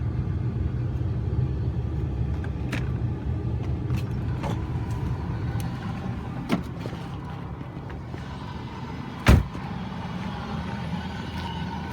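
Buick 3.8-litre V6 idling steadily shortly after a cold start in freezing weather, with a few light knocks and one loud thump about nine seconds in.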